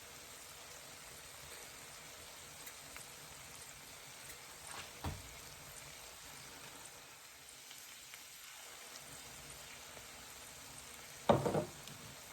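Pot of vegetables simmering in butter on the stove, with a faint, steady sizzle. There is a soft knock about five seconds in and a short, louder clatter near the end.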